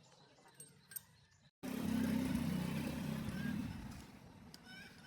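An engine running with a low rumble, starting abruptly at a cut about a second and a half in and easing off after about two seconds.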